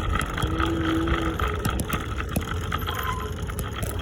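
Steady rumble of a scooter rolling along a paved path, with wind rushing over the microphone.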